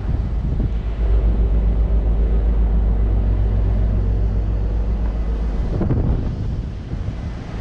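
Ship's machinery running with a steady low rumble and hum, which eases about six seconds in; wind buffets the microphone.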